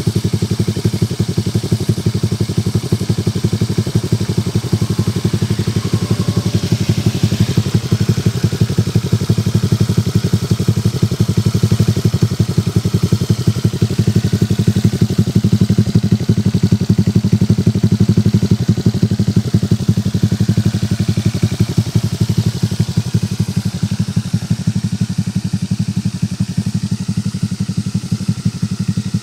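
Honda Vario 125 scooter's single-cylinder engine idling steadily through a CLD C3 oval racing exhaust with the dB killer removed, giving a loud, deep, even exhaust pulse.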